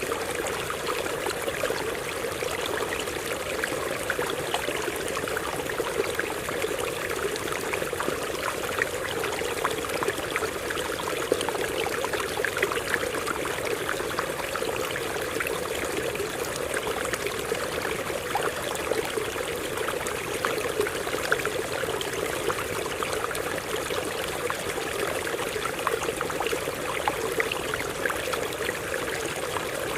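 Stream water running over rocks: a steady rush of flowing water with many small splashes and trickles throughout.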